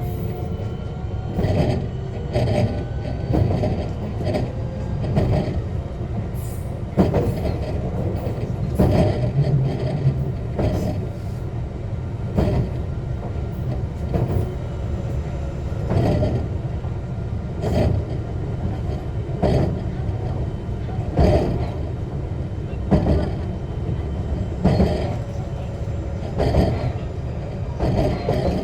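JR West 125 series electric railcar running at a steady speed, heard from inside the car: a continuous low rumble with a rail-joint clack about every 1.8 seconds.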